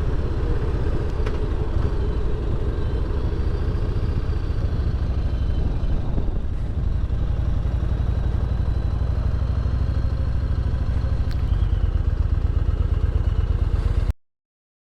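Motorcycle engine running steadily under way, with road and wind noise on the microphone. The sound cuts off abruptly about a second before the end.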